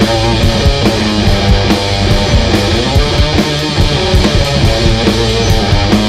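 Garage-rock duo playing live and loud: electric guitar over a steady drum beat with regular cymbal hits.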